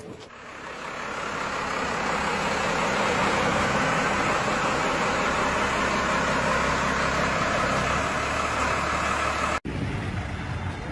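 A heavy truck's engine running under load, building over the first two seconds and then holding steady; it cuts off abruptly near the end, and a quieter vehicle sound follows.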